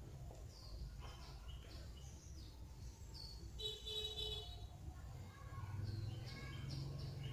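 Small birds chirping in short, quick calls, over a steady low hum.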